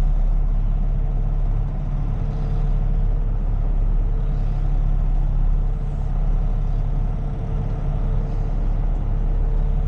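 Heavy tow truck's engine running at low speed as it creeps forward towing a bucket truck, a steady low rumble with a faint higher whine that comes and goes.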